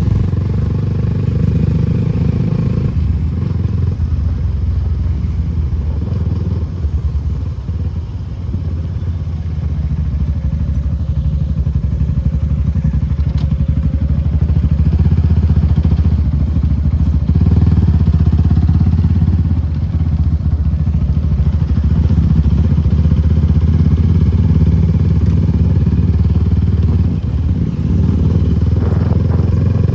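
Suzuki Gixxer SF250's single-cylinder engine running under way through an aftermarket Akrapovic exhaust, a steady low exhaust note. It eases off briefly about eight seconds in, then picks up again.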